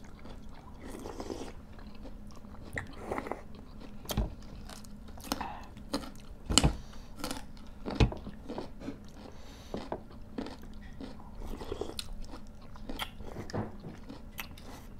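Close-up eating sounds: people chewing and crunching food, with frequent short crunches and two sharper, louder ones about six and a half and eight seconds in.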